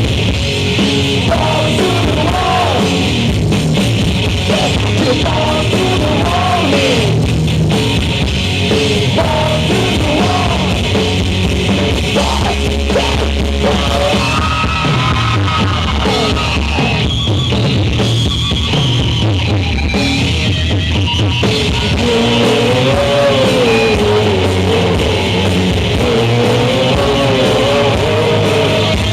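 Live rock band playing loud: a drum kit, electric guitars and bass, with a bending melodic lead line on top.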